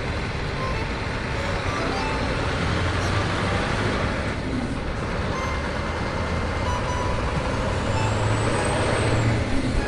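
Truck engine running steadily: a continuous low rumble under a dense noisy hiss.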